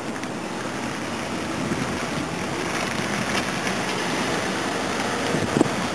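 Steady road and engine noise heard inside a moving patrol car, slowly getting louder, with a short click at the start and a light knock near the end.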